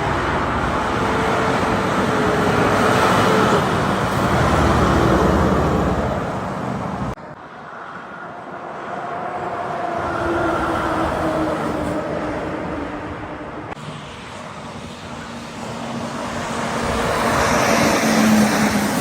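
Heavy trucks passing by on a road, one after another: engine and tyre noise swells and fades three times, with a falling engine tone as each goes past. The sound changes abruptly about seven and fourteen seconds in.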